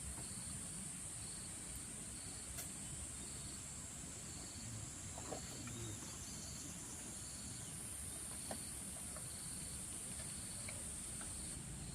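Night insect chorus: a steady high-pitched buzz, with a cricket chirping in an even rhythm about twice a second and a few faint clicks.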